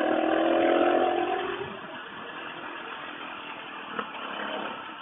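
A Suzuki DR650's single-cylinder engine running loudly for the first second or two, then dropping back as wind and road noise take over.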